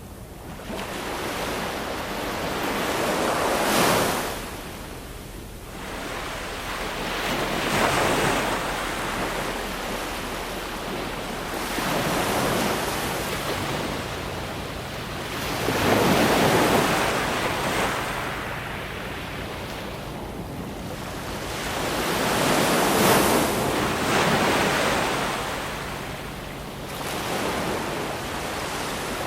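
Ocean waves breaking and washing in, one after another, the surf swelling and fading every four seconds or so.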